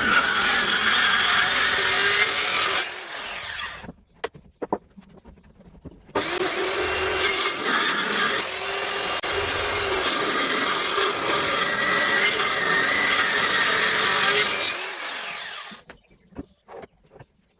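Circular saw cutting wood in two runs, the first about three seconds long and the second about nine. Each run ends with the saw's sound dying away into quiet broken by a few light knocks.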